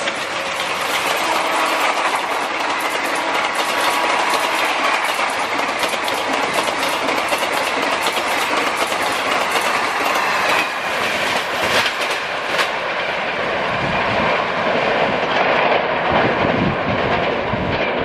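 Express train's passenger coaches passing close at high speed: a loud, steady rush of wheels on rails with rapid clattering over the rail joints.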